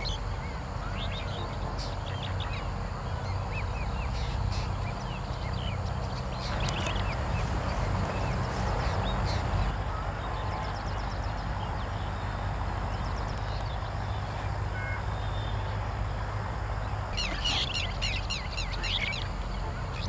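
Birds chirping and twittering in short clusters of high, quick notes, a few seconds apart, over a steady low rumble.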